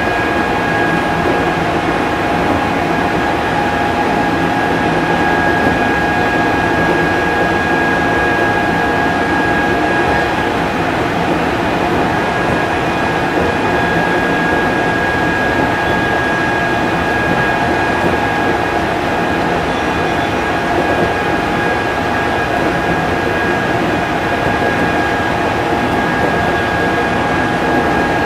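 Odakyu 5000 series electric train running at a steady speed, heard from on board: a steady rumble from the running gear with high, steady whining tones over it. The highest whine drops out for about a second and a half, roughly ten seconds in, then returns.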